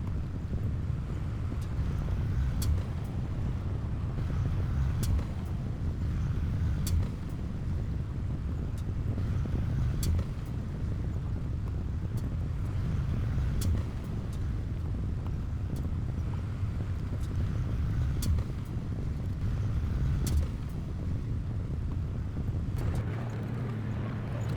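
Heavy diesel earthmoving machine running steadily with a deep, low rumble, and sharp metallic clicks every second or two.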